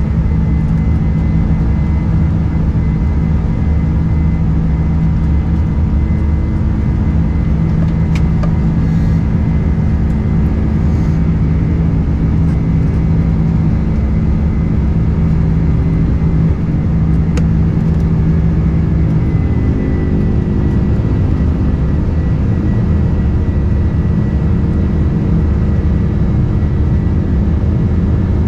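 Boeing 747-400 jet engines heard from inside the passenger cabin: a loud, steady drone with a deep hum and several steady tones. The tones shift slightly about two-thirds of the way through, as the engine setting changes.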